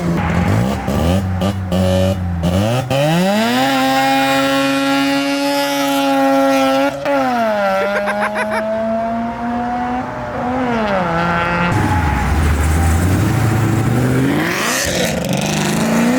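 Performance car engines revving hard while accelerating away. The pitch climbs, holds high, drops back at gear changes about halfway through and again past two-thirds, then climbs once more near the end. A few sharp exhaust pops come in the first two seconds.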